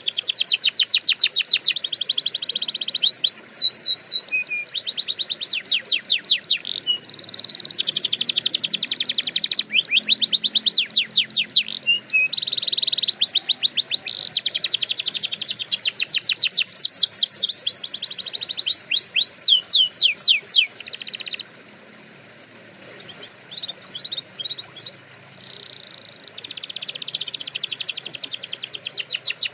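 Domestic canary singing: fast trills of repeated high notes, phrase after phrase, each phrase built of a different note type. About two-thirds through the song drops to a few scattered notes, then the trilling starts again near the end.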